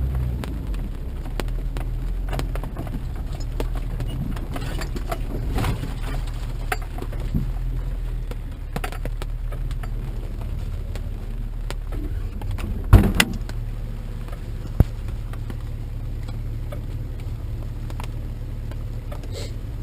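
Motor vehicle running, heard from inside, with a steady low rumble and scattered rattles and knocks from a rough ride. A loud knock comes about thirteen seconds in, and a smaller one follows soon after.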